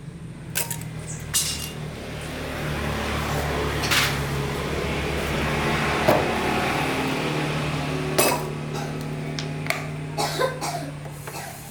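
Metal tools and parts clinking and knocking a few times, over a steady low mechanical hum that swells in the middle and eases off near the end.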